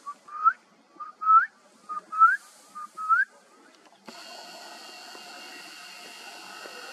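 A bird whistling four times about a second apart, each call a short steady note followed by a quick rising slur. About four seconds in, a steady hiss and hum sets in abruptly.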